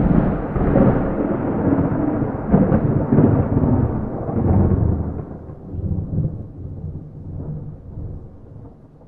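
Rolling thunder with no rain: a loud peal that swells several times over the first five seconds, then dies away into weaker, lower rumbles.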